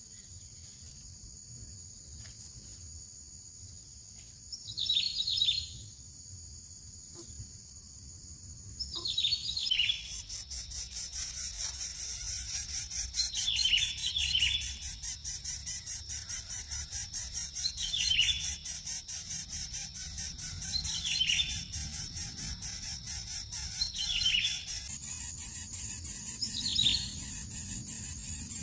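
A bird giving short falling chirps, one or two at a time, every few seconds, over the steady high drone of insects. About ten seconds in, the insect sound turns into a fast pulsing trill.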